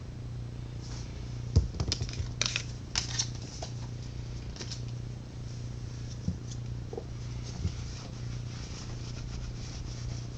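Flashcards being handled: a cluster of light clicks and rustles a couple of seconds in, then a few scattered taps, over a steady low electrical hum.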